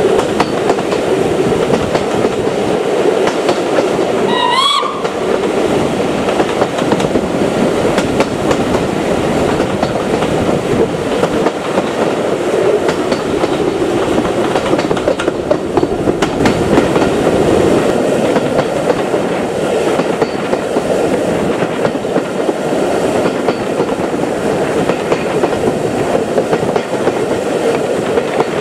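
Railway carriages running along the track: a steady rumble with clickety-clack from the wheels over rail joints. About four seconds in comes a brief rising whistle.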